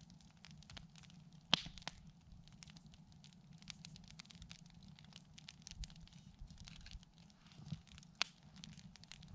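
Wood campfire crackling: a steady run of small snaps, with two louder pops, one about one and a half seconds in and another late on.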